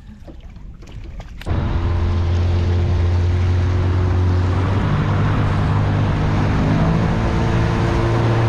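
Boat's outboard motor running at speed, with rushing water and wind noise; it comes in suddenly about a second and a half in, and its note steps up about five seconds in.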